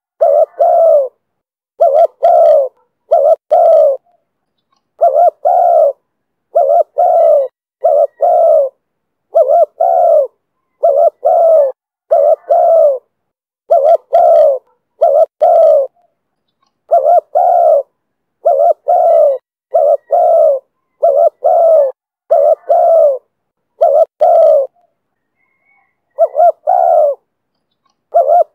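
Spotted dove cooing in the 'thổ thúc bổi' voice: short phrases of two or three low coos, repeated steadily with brief pauses between phrases and a longer pause near the end.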